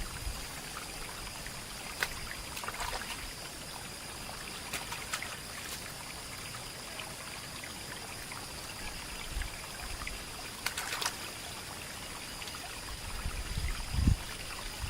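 Water trickling steadily, with a few light clicks.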